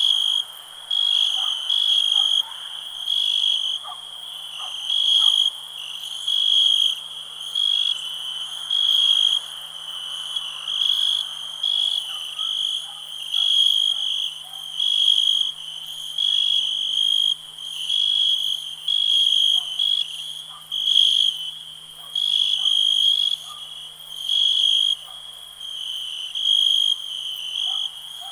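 Crickets chirping in a steady high trill that swells in pulses about once a second, with fainter, lower short calls scattered beneath.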